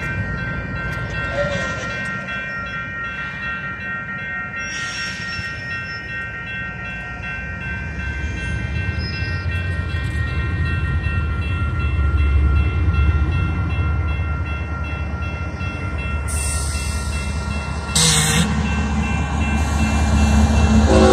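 A group of Union Pacific diesel locomotives running light in reverse: a low engine rumble that grows louder as they come closer, over a steady high whine. Near the end come two short loud bursts of hiss.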